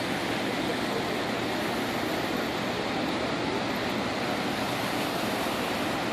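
Floodwater pouring through the open flood gates of Bagnell Dam into the Osage River, a steady, unbroken rush.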